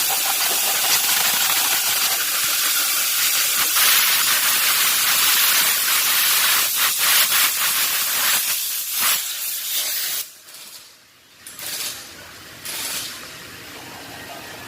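Loud, steady hissing spray from a pressurized nozzle, the kind used to blow out or clean engine parts. It cuts off about ten seconds in, and two short bursts follow.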